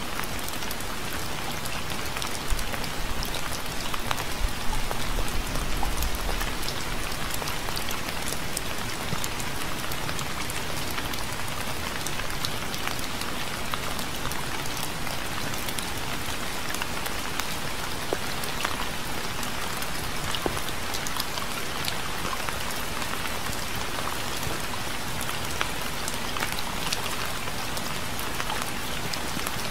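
Steady rain falling, with many individual drops ticking on a hard surface. A low rumble swells briefly a few seconds in.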